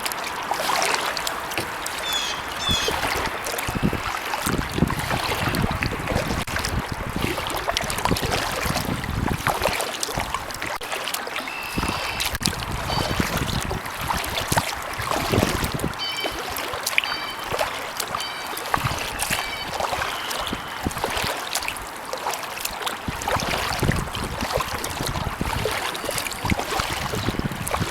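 Kayak paddle strokes dipping into and pulling through pond water, with drips and small splashes off the blade.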